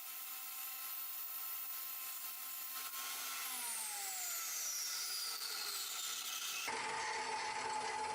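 Table saw running with a steady hum, then switched off about three and a half seconds in, its pitch falling as the blade spins down. Near the end the sound cuts abruptly to a different, rougher noise.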